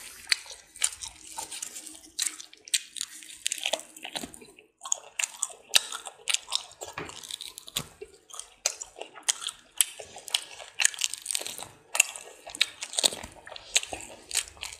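Close-miked crunchy chewing and biting of a roast pig's head, with many sharp, irregular crunches.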